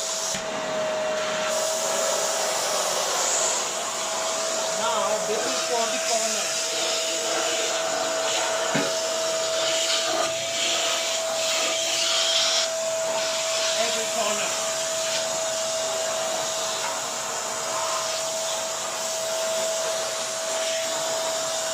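A 1200-watt bagless vacuum cleaner running steadily: a constant motor whine over the rush of air, with a few faint ticks of debris being picked up.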